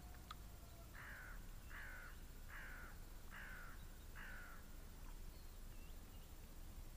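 A bird giving five harsh calls in a row, evenly spaced about three-quarters of a second apart. Faint thin chirps of smaller birds follow.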